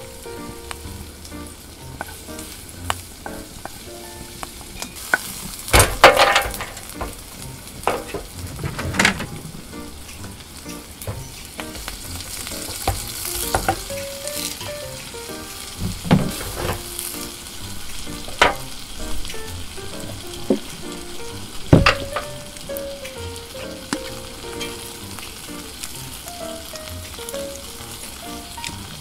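Sliced onions, green peppers and tomatoes sizzling steadily as they fry in a frying pan over a wood-burning camp stove, with a few sharp knocks and clatters against the pan, the loudest about six seconds in.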